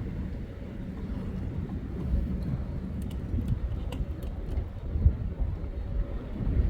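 Low, steady rumble of a freight train, with faint steady engine tones and a few light clicks partway through.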